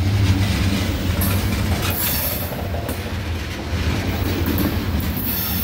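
Freight train of tank cars rolling past at close range: a steady low rumble of steel wheels on the rails.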